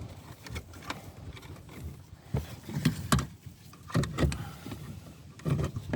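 Irregular clicks, knocks and dull bumps of hands working a car's rear light unit and its wiring into place, with the louder bumps coming in the middle and near the end.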